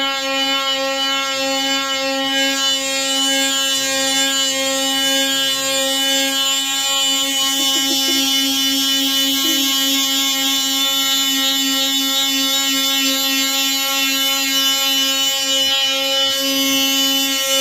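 Handheld electric power tool running steadily at one constant high-pitched hum, working on wood.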